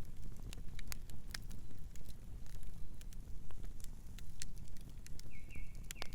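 Wood campfire crackling: irregular sharp pops and snaps over a steady low rumble of burning. Near the end a bird gives a quick run of short chirps.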